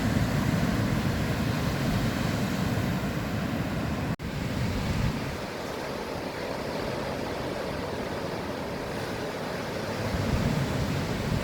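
Ocean surf washing steadily, with wind rumbling on the microphone. About four seconds in, the sound breaks off for an instant and comes back quieter, with less low rumble.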